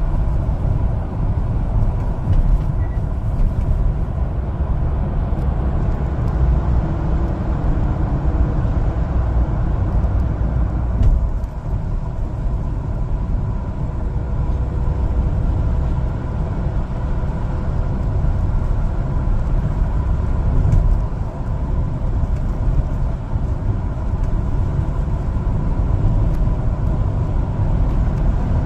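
Steady engine and road noise of a one-ton LPG cargo truck being driven: a continuous low rumble with a faint steady whine.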